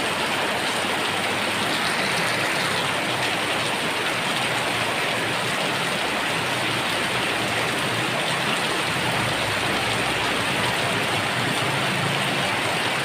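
Heavy rain falling steadily. A low rumble swells and fades about nine to eleven seconds in.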